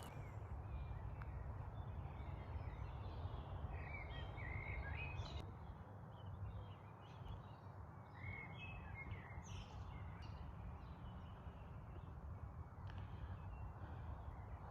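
Outdoor nature ambience: a steady low rumble with birds calling in short chirps, mostly about four seconds in and again around eight to ten seconds in.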